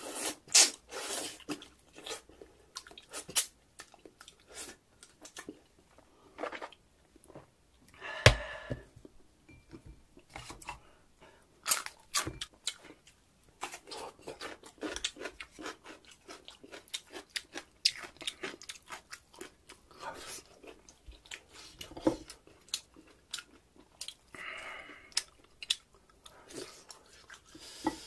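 Close-miked chewing and mouth smacking from a man eating meat off pork backbones, with repeated crisp crunches and bites. There is one sharp knock about eight seconds in.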